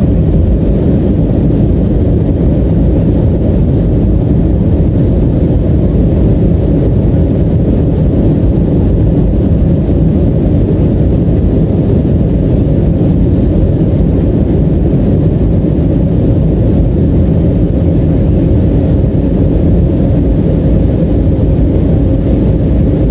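Boeing 737-300 airliner's CFM56 engines and airflow heard inside the cabin as a loud, steady, even rumble.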